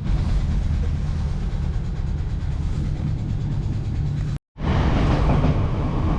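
Passenger train running: a steady low rumble, which cuts out abruptly for a moment about four and a half seconds in.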